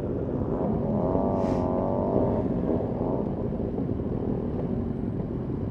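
Several motorcycle engines idling together, with one engine revving up and down for a second or so about a second in.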